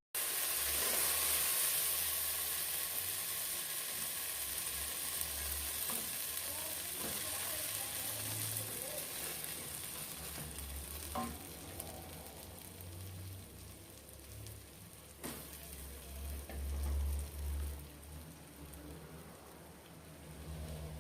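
Chopped onion, bell pepper and garlic sizzling in oil in a pot, stirred now and then, with a few sharp knocks of the spoon against the pot. The sizzle gradually dies down.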